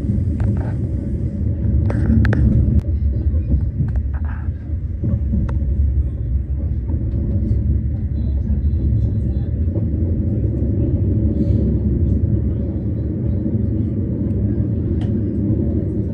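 Electric commuter train running, a steady low rumble heard from inside the carriage, with a few light clicks in the first few seconds.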